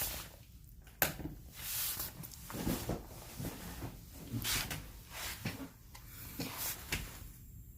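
Handling noises: a sharp click about a second in, then soft rustles and small knocks of things being moved about.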